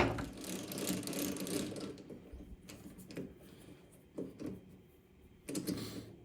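Workshop handling noises: a sharp metallic clink at the start, then rustling and scraping for about two seconds, and a few separate knocks and clinks after that, as brass stock and tools are handled.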